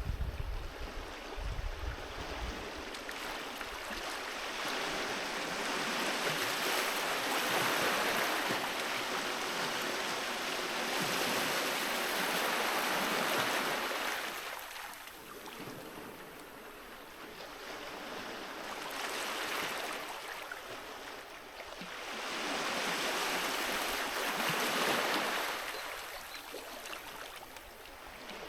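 Sea waves washing onto a beach: a hissing surf that swells and ebbs in three long surges, with a low rumble in the first couple of seconds.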